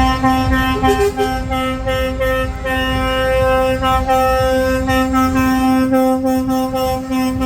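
Truck air horns blowing long held blasts, several tones sounding together with short breaks, over the low rumble of heavy diesel trucks.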